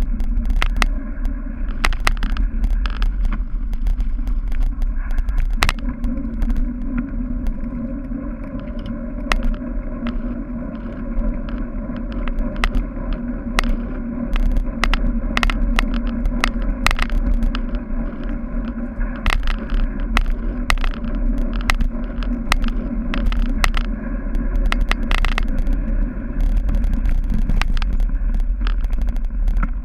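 Cyclocross bike ridden hard over rough grass and dirt: a steady rumble of wind and tyres, with many sharp rattles and clicks from the bike bouncing over bumps.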